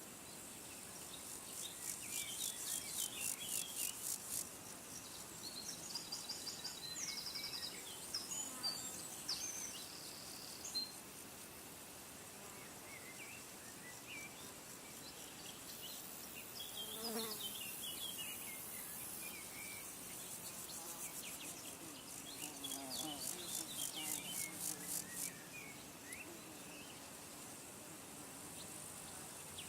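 Natural outdoor ambience: scattered small bird chirps over a faint steady hiss, with two high, fast buzzing trills a few seconds long, one near the start and one about three-quarters of the way through.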